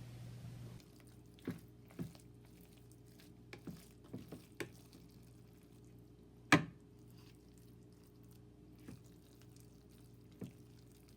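Scattered light knocks and clicks of kitchen work, about nine in all and unevenly spaced, with one louder knock about six and a half seconds in, over a low steady hum.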